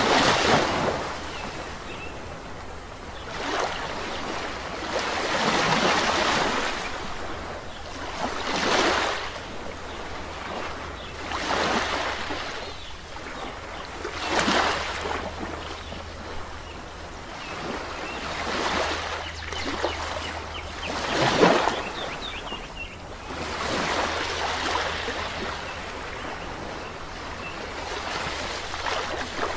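Sea waves breaking and washing on a shore, one swell of surf after another every two to three seconds. A few faint bird chirps come in near the end.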